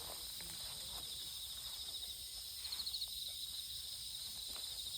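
Steady high insect trilling, a fast pulsing buzz that swells louder for about half a second near the middle.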